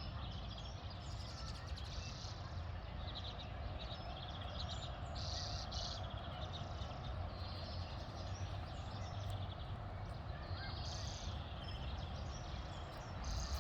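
Garden birds chirping and trilling in short bursts over a steady low background rumble.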